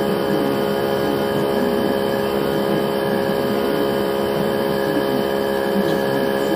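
Electric air compressor running steadily, inflating a bicycle tyre: an even motor hum with several constant tones, no change in pitch or level.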